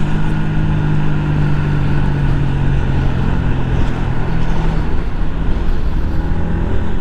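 Yamaha 125 cc single-cylinder motorcycle engine running at a steady cruise over wind and road noise. Its note drops in pitch from about five seconds in as the throttle eases off.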